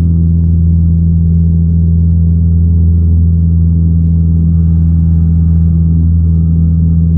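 Cessna 172's piston engine and propeller running steadily in the cockpit during the climb after takeoff, a constant low drone.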